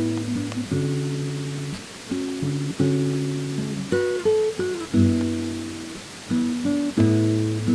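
Acoustic guitar played slowly: chords struck roughly once a second, each ringing and fading, with a few short single-note fills between them.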